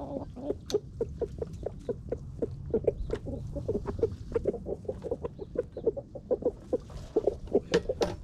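Hens clucking steadily as they feed, a run of short calls several times a second from the flock.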